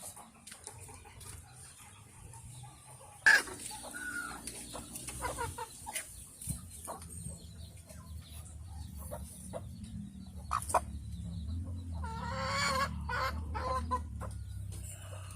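Chickens clucking, with one longer, wavering call about twelve seconds in. A sharp knock comes about three seconds in, over a low rumble.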